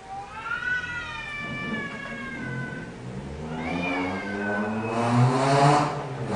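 Domestic cats yowling in a fight standoff: a long drawn-out yowl, then a shorter rising-and-falling one. A low growling yowl rises steadily in pitch and ends in a loud harsh hiss.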